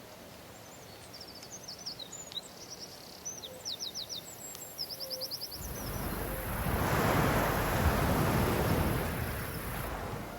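Birds chirping in quick runs of short, falling notes. About halfway in, a loud rushing noise swells up, peaks, and fades again near the end.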